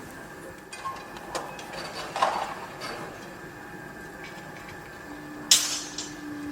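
Construction-site noise: a steady machine hum with irregular sharp clanks and knocks, the loudest about five and a half seconds in. A steady low tone comes in around five seconds.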